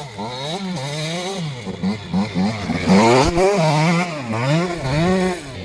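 KTM 85 SX two-stroke dirt bike engine revving up and down repeatedly, the pitch rising and falling about once a second, loudest about halfway through.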